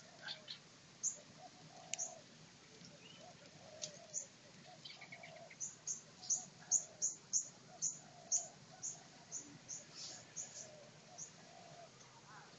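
Birds chirping: faint short high chirps, sparse at first, then a quick run of about two or three a second from about five seconds in, with softer lower calls mixed in.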